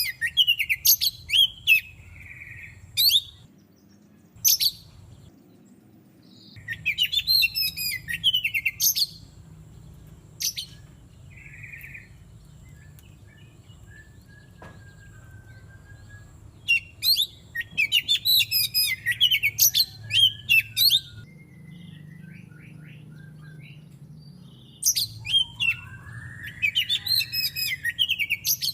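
Oriental magpie-robin (kacer) singing in bursts of rapid, high, varied phrases, separated by pauses of a few seconds, over a steady low hum.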